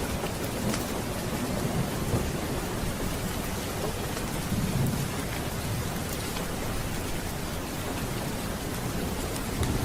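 Steady rain with low rolling thunder rumbling underneath, swelling briefly near the middle.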